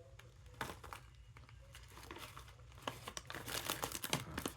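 Paper microwave popcorn bag crinkling and rustling as it is handled, in short irregular bursts.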